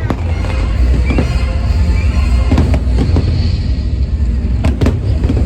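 Fireworks bursting: several sharp bangs over a deep, continuous rumble, with the fireworks show's music soundtrack playing under them.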